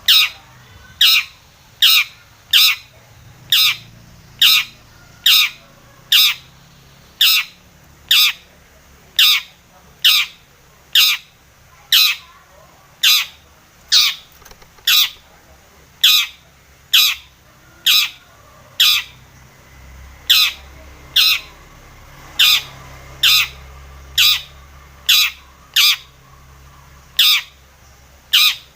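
Long-tailed shrike (cendet) giving a short, falling call over and over, about once a second and evenly spaced.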